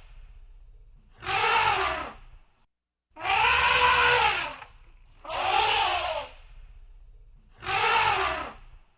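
Elephant trumpeting: four harsh, brassy calls about a second long each, every one rising then falling in pitch, spaced about two seconds apart, with a low rumble in the gaps between them.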